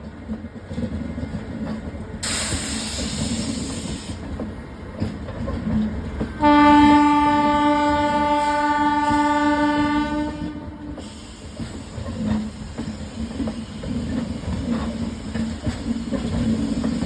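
Passenger train running on the rails with a steady rumble and wheel clatter. About two seconds in there is a two-second burst of hiss. Midway the locomotive horn sounds one long, steady blast lasting about four seconds.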